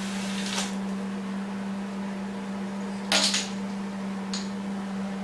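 Steady low electrical hum, with a short clatter about three seconds in and a faint tick a second later.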